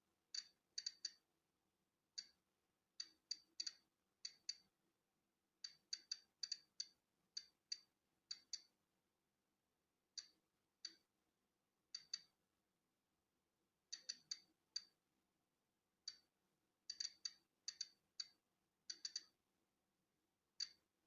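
Polon EKO-C digital Geiger counter clicking at irregular, random intervals, about two a second on average, sometimes in quick clusters and sometimes with gaps of over a second. Each click is a detected particle, and the count reflects ordinary natural background radiation.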